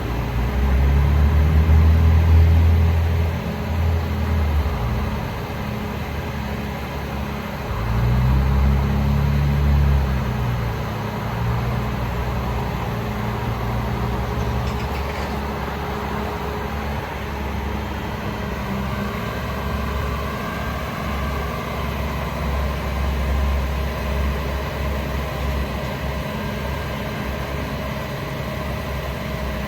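Cummins L9 turbo diesel engine in a Freightliner M2 truck idling, its note rising and getting louder twice, about a second in and again about eight seconds in, then settling back to a steady idle.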